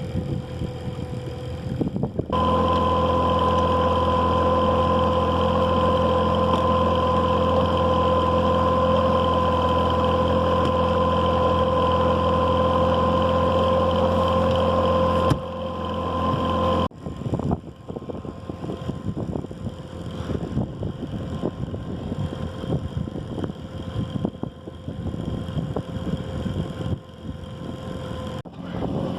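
A small sailboat's motor running steadily at an even speed for about thirteen seconds, then breaking off abruptly to uneven wind and water noise.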